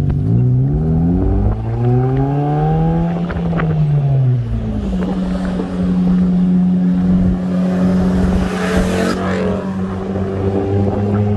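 A car engine accelerating, its pitch rising for about three seconds and then falling back, before it settles into a steady drone under road noise. A brief whoosh comes about nine seconds in.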